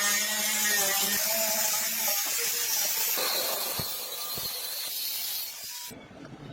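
A steady, loud hiss like a jet of air or spray, with a wavering tone over it for the first two seconds, cutting off suddenly near the end.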